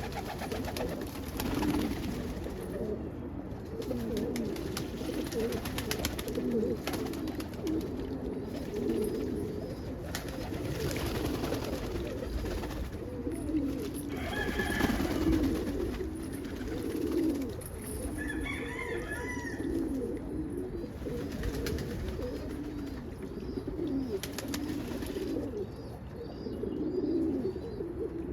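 A flock of roller pigeons cooing continuously, many birds overlapping, with a brief higher call about eighteen seconds in.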